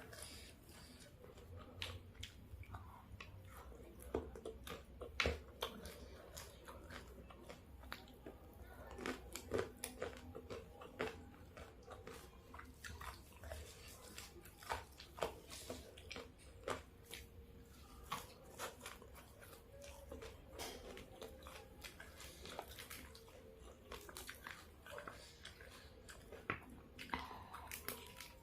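Close-miked mukbang eating of a fried chicken meal: biting and chewing, with irregular crunches and wet mouth clicks.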